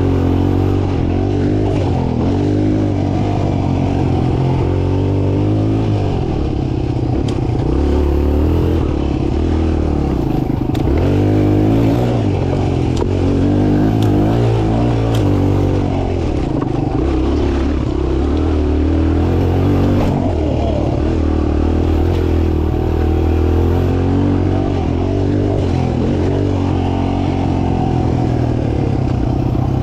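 Mini dirt bike engine running continuously, revving up and down again and again as it is ridden around a track.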